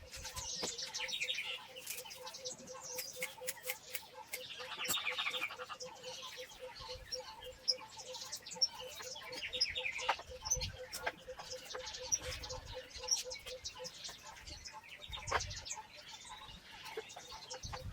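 Birds chirping, with scattered sharp clicks and knocks and a faint, evenly pulsing tone that stops near the end.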